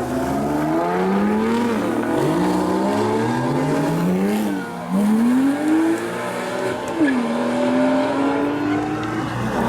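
Performance car engines accelerating hard away. The engine note climbs in pitch and then drops sharply several times in quick succession, like gear changes under full throttle, and settles into a slower steady climb near the end.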